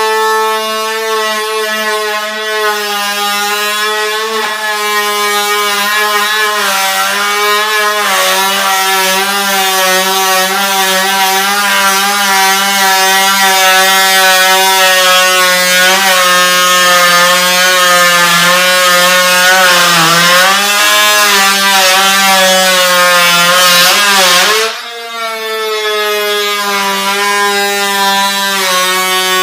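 Electric power tool motor running continuously, its pitch wavering and sagging as it is worked under load. It cuts out briefly about 25 seconds in, then starts again.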